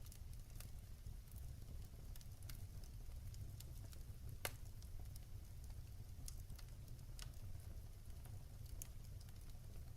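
Wood fire crackling in a fireplace: scattered faint pops and ticks at irregular intervals, one sharper pop about halfway through, over a low steady rumble.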